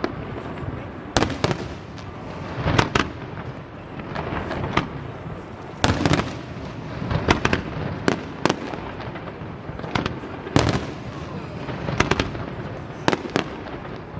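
Fireworks display: shells bursting in an irregular run of about fifteen sharp bangs, some in quick pairs, over a continuous noisy background.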